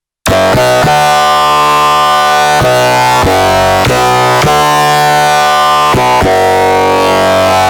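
Arturia MicroBrute analog synthesizer playing a loud sawtooth bass patch. It comes in sharply after a brief silence, then plays a line of held notes that change every second or so.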